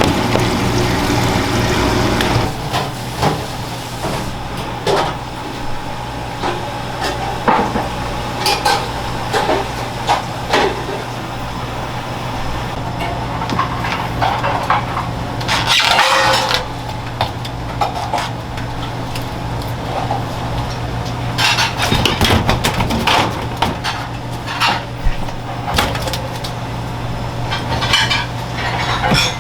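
Kitchen work sounds: dishes and utensils clinking and knocking at irregular intervals, over a steady low hum.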